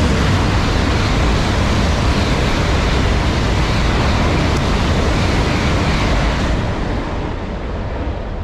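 Shinkansen bullet train passing through the station at high speed: a loud, steady rush of air and running noise that eases off about seven seconds in.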